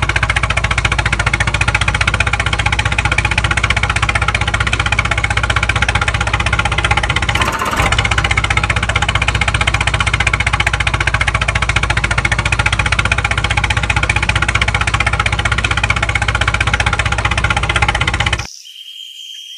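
Engine running steadily at idle with an even, knocking pulse and a strong low hum. It cuts off abruptly about a second before the end.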